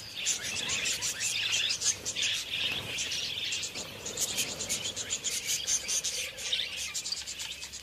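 A flock of wild budgerigars chattering, with a dense run of short, quick chirps that goes on throughout.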